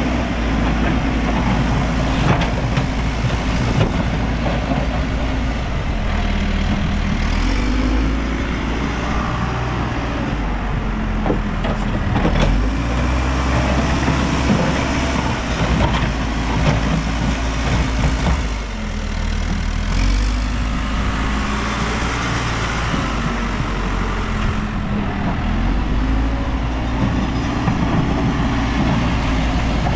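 New Holland backhoe loader's diesel engine running under working load, its pitch rising and falling every few seconds as the machine digs and moves, with a few sharp knocks about halfway through.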